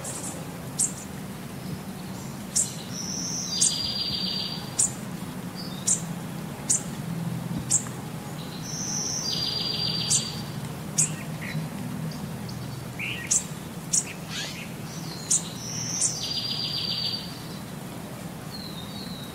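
Small birds chirping: short, high chirps about once a second, with a buzzy trill heard three times, over a faint low hum.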